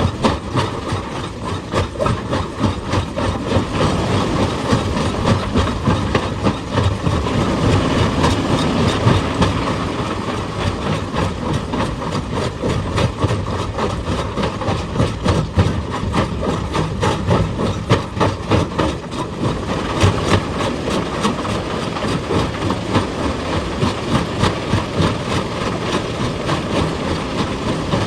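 Heavy excavator working on rock: its diesel engine runs under a fast, continuous clatter of rapid impacts.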